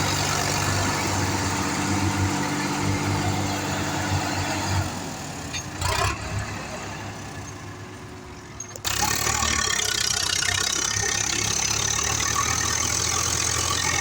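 Tractor diesel engine running with a pulsing low beat. It fades lower about five seconds in, with a click near six seconds. About nine seconds in it comes back abruptly as a steady, louder engine noise.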